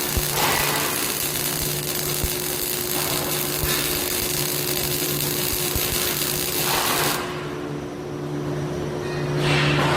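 An automatic welding rolling machine running with a steady hum and a broad hiss. The hiss cuts off suddenly about seven seconds in while the hum carries on.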